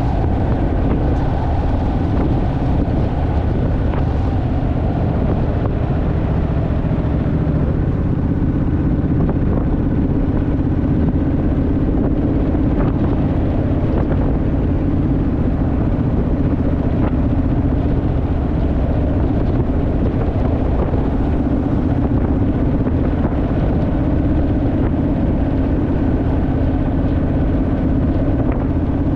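Honda Rebel parallel-twin motorcycle engine running at a steady cruise, an even engine drone mixed with heavy wind noise on the microphone.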